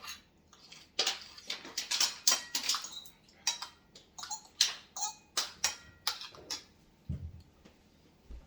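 Close-up mukbang eating sounds: chewing and lip smacks in a dense, irregular run of sharp clicks, with a low thump about seven seconds in.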